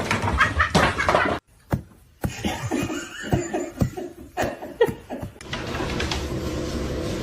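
A person laughing in a run of short, falling "ha" sounds, starting after a brief gap about two seconds in; a steady hiss follows near the end.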